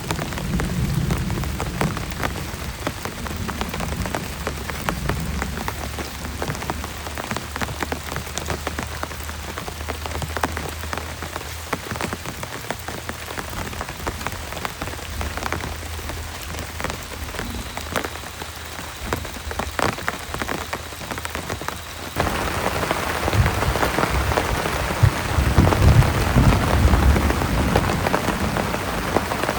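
Heavy rain falling, with many individual drops tapping close by and a low rumble of thunder in the first half. About three-quarters of the way through, the rain abruptly becomes louder and denser, with low thuds.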